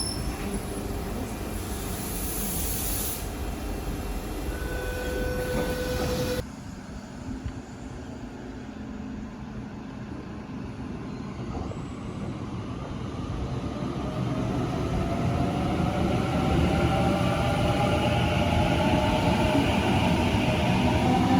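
Electric passenger train on the line, its noise building steadily louder over the second half as it approaches, with a rising whine. The sound changes abruptly about six seconds in.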